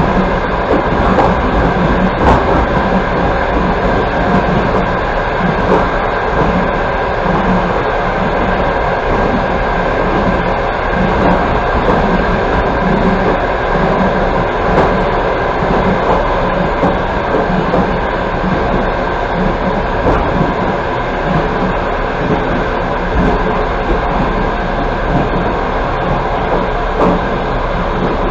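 Passenger train running at speed, heard from inside the coach: a steady rolling rumble with light wheel clicks over the rails.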